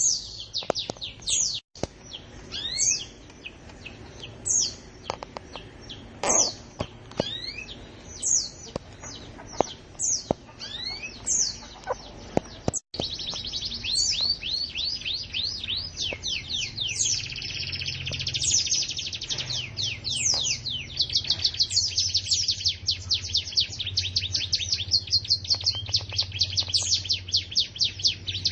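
Domestic canary singing: single high downward-sweeping whistles about a second apart, then, about halfway through, a continuous run of fast repeated trilled notes.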